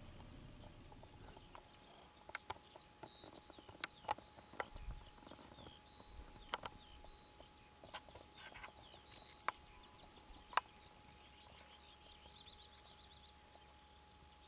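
Faint chirping and twittering of small birds, short high notes scattered through and clustering near the end, with several sharp separate clicks standing out above them.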